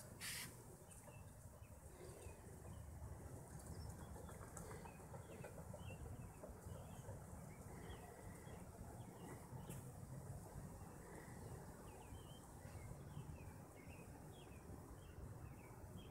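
Faint birds chirping, many short scattered calls, over a steady low background hum, with a brief rustle just at the start.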